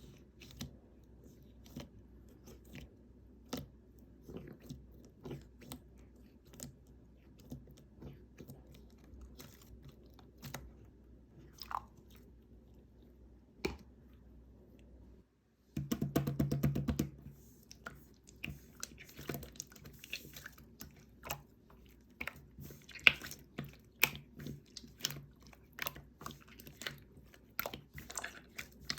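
Jiggly slime being squished and pressed by hand, giving a string of small sticky clicks and pops. About sixteen seconds in, a dense crackling run lasts about a second, and after it the clicks come faster and louder.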